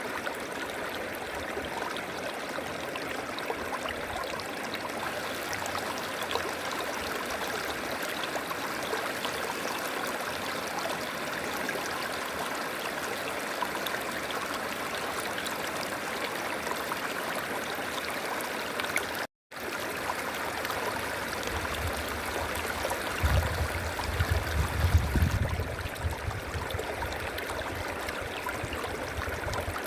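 A flowing river, a steady rush of water. The sound cuts out for an instant a little past halfway, and a low rumble rises beneath the water for a few seconds near the end.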